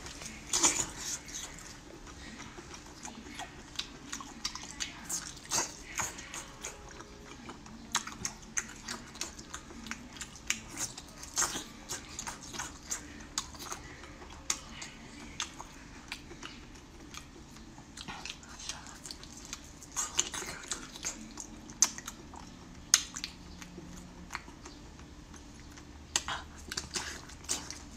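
A person biting and chewing braised octopus tentacles, with irregular short mouth clicks and smacks throughout.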